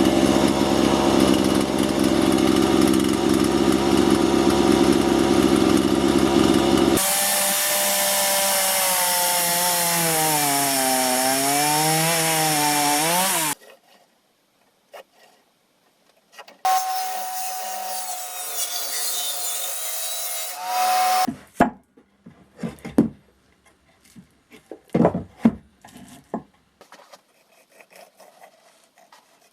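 Power tool working on the rusty axe: it runs steadily, then works under load with its pitch wavering, stops, and runs again briefly. Separate knocks and scrapes of metal and wood being handled follow.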